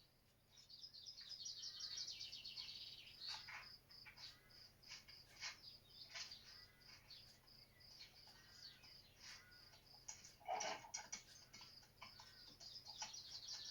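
Faint birdsong: rapid high chirping and trilling calls, with one louder, fuller call about ten and a half seconds in.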